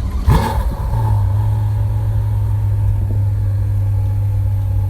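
Ferrari GTC4Lusso's 6.3-litre V12 engine revving once sharply, its pitch sweeping up fast about a third of a second in, then settling into a steady, even idle.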